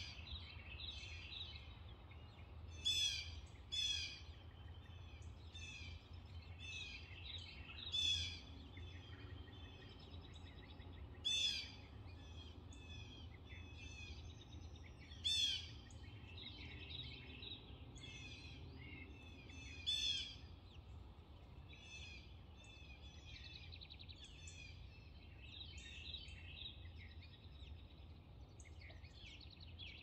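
Birds chirping and calling, with a loud sharp call every few seconds among many softer chirps, over a steady low hum.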